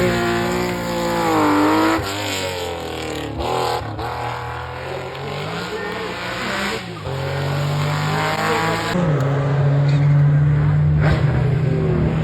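Porsche rally car engine revving hard, its pitch rising and falling through gear changes and lifts for the first several seconds, then settling into a steadier, lower note for the rest.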